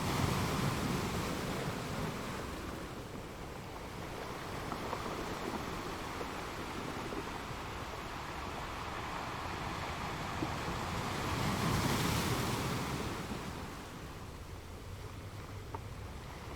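Ocean surf: waves washing in, a steady rush that swells with a breaking wave about a second in and again about twelve seconds in, then eases.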